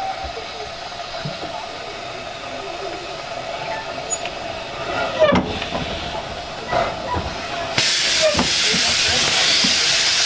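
Steam hissing from the 15-inch gauge steam locomotive No. 5 Hercules; a loud, steady hiss of escaping steam starts suddenly about eight seconds in.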